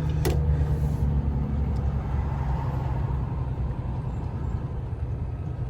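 Truck's diesel engine droning steadily while driving downhill off a mountain pass, its note dropping slightly about halfway, with one sharp click near the start.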